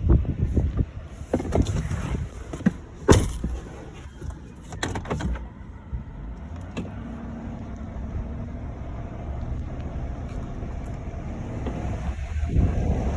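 Strong wind buffeting the microphone: several sharp gusts in the first few seconds, then a steadier low rumble that builds again near the end.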